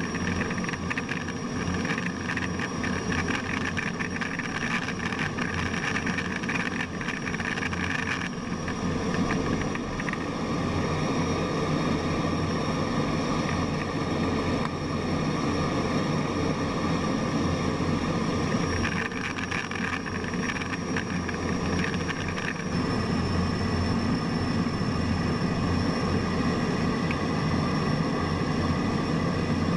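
Steady jet aircraft noise: a continuous engine drone with a thin, high, steady whine over it, changing slightly in character about 8 seconds and 23 seconds in.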